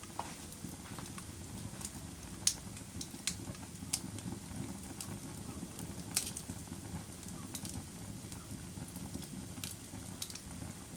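Wood fire burning in a fireplace: a steady low rumble of flames, with sharp crackles and pops from the burning logs at irregular moments, roughly once a second.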